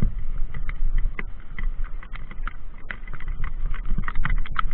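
Mountain bike being ridden over rough ground: a steady low rumble with many irregular sharp clicks and knocks from the bike rattling and the tyres striking stones.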